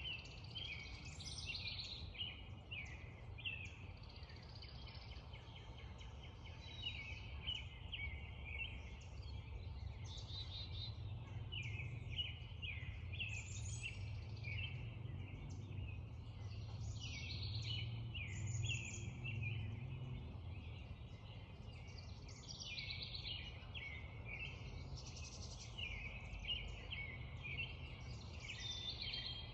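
Spring dawn chorus: many songbirds singing and chirping at once, with a steady low rumble underneath.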